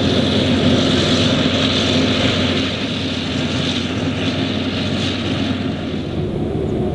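Claas Jaguar 980 forage harvester's V12 diesel running steadily under load while chopping maize, with a high rushing hiss from the chopping and crop flow. The hiss fades about halfway through and again near the end while the engine drone carries on.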